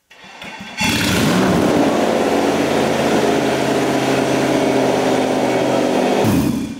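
Freshly swapped car engine started on a jump-starter booster: it cranks briefly, catches about a second in and runs loud and steady, then is shut off near the end, its pitch falling as it winds down.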